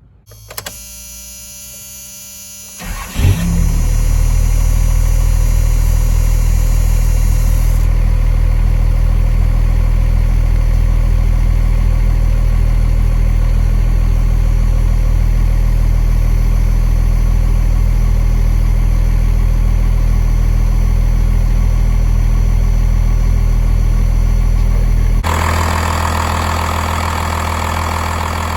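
A 5.9L Cummins inline-six turbo diesel in a 1993 Dodge D250 is cranked on the starter for about two and a half seconds, catches, and settles into a steady idle. The seller says the engine runs great, with nothing wrong with it at 363k miles. Near the end the sound changes abruptly, becoming a little quieter.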